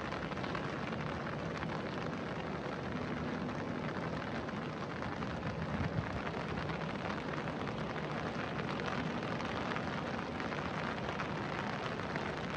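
Rain falling steadily on wet paving, a dense, even hiss that holds unchanged throughout.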